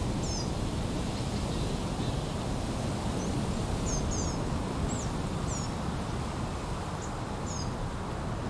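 Small birds chirping: short, high, falling chirps, some in quick pairs, about once a second, over a steady low rumbling noise.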